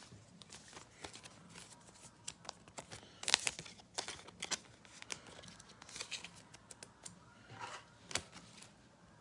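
Trading cards and crinkly plastic being handled: scattered light clicks and rustles, with a louder crinkle about three seconds in and another near the end.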